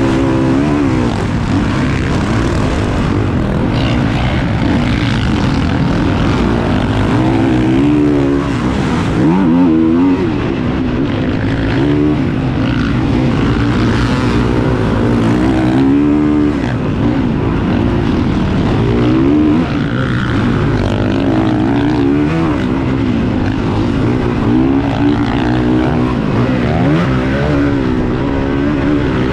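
Motocross bike engines revving hard, the pitch rising and falling again and again as they accelerate, shift and back off around the track.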